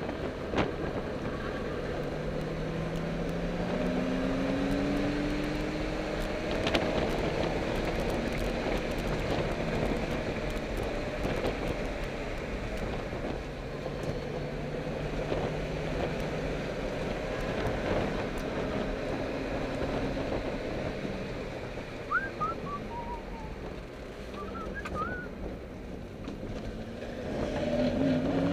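A car's engine and road noise heard from inside the cabin while lapping a track, the engine note rising and falling between corners. A few short high chirps come about three-quarters of the way through, and the engine pitch climbs steadily under acceleration near the end.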